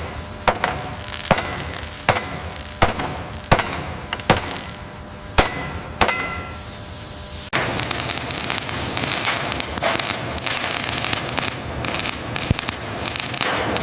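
A string of sharp blows on wood, a little more than one a second, some leaving a brief ringing note, like hammering on timber. About seven and a half seconds in they give way abruptly to a dense, crackling, scraping noise.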